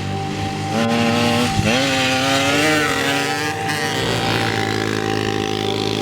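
Small 50cc moped engines revving, their pitch rising and falling, with a sharp climb about a second and a half in.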